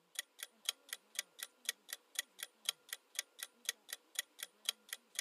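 Quiz countdown timer sound effect: a clock ticking evenly about four times a second.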